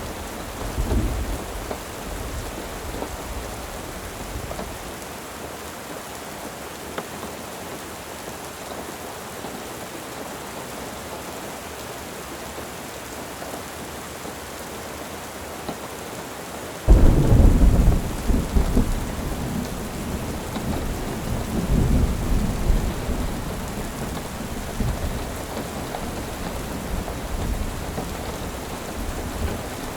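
Steady rain falling, with a low roll of thunder about a second in. Midway through, a sudden loud clap of thunder breaks out and rumbles on for several seconds, fading away.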